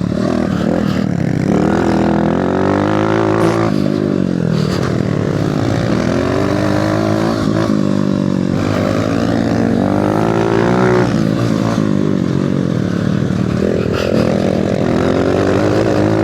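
Mini bike engine revving hard and easing off over and over, its pitch climbing and dropping about four or five times as the bike rides around the track.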